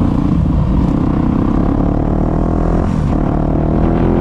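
Dirt bike engine under load, rising in pitch as it accelerates, dropping briefly nearly three seconds in as a gear is shifted, then climbing again. Recorded through a GoPro's built-in microphone.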